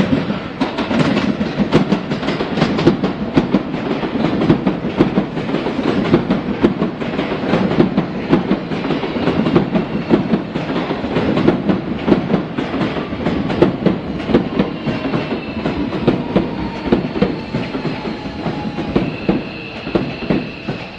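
Seibu 40000 series electric train running into the station, its wheels clattering over the rail joints in a dense run of clicks over a low rumble. The clicks thin out as it slows, and a steady high whine comes in near the end.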